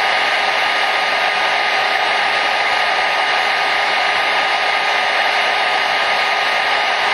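Hair dryer running continuously, a steady rushing blow of air with a faint constant motor hum, without any change in speed.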